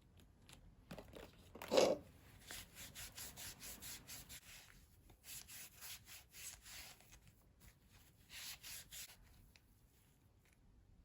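A series of soft rubbing or scraping strokes, with one louder stroke about two seconds in.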